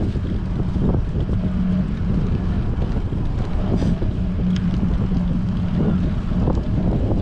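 Strong wind buffeting a bicycle-mounted action camera's microphone while riding: a loud, steady low rumble, with a low hum that comes and goes.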